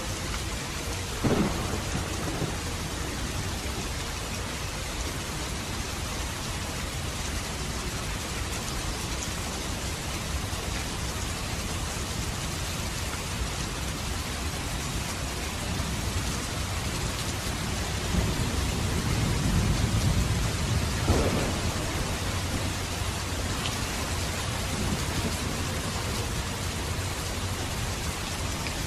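Steady rain falling, with thunder: a sharp crack about a second in, and a low rumble that swells about two-thirds of the way through and ends in another sharp crack.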